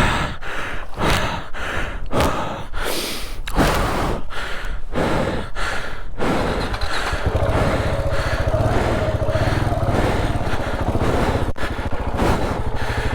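Hard panting in short bursts, about two a second, from someone straining. About seven seconds in, a KTM 690 single-cylinder motorcycle engine starts and settles into a steady idle.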